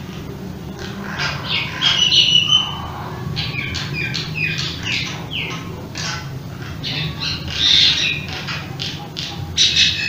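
Birds chirping and calling: a string of short, quickly falling chirps and a few brief held high notes, loudest about two seconds in and again near eight seconds, over a steady low background rumble.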